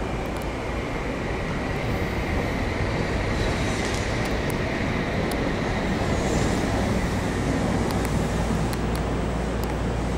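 Tokyu 3000 series electric train pulling into the station platform and slowing, a steady rumble of wheels on rail with a few sharp high clicks.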